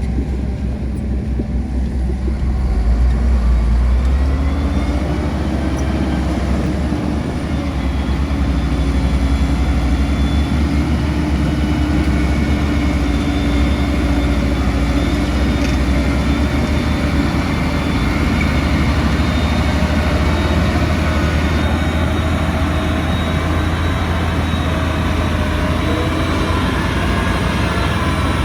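Heavy construction machinery's diesel engine running steadily under load, its pitch rising a few seconds in and then holding.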